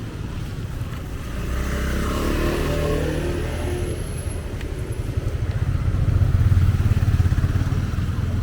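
Motorbike engines running close by as motor scooters pass on the street, one engine note rising and falling a couple of seconds in, then a louder low engine throb swelling and fading from about six seconds in.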